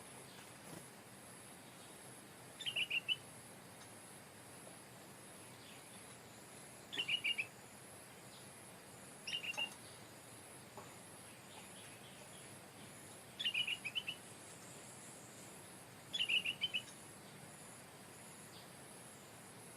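Stripe-throated bulbul singing: five short phrases of a few quick notes each, spaced a few seconds apart.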